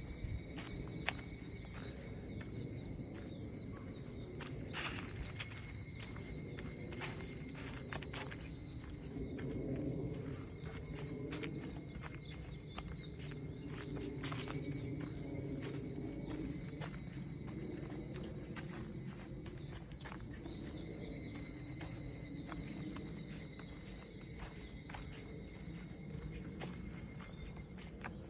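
Summer insects, cicadas, droning in a steady high-pitched buzz, with fainter steady insect tones beneath. Many short ticks are scattered through it.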